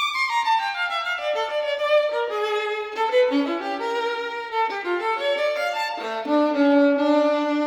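Violin music: a falling run of notes, then a winding melody that settles on a long held low note near the end.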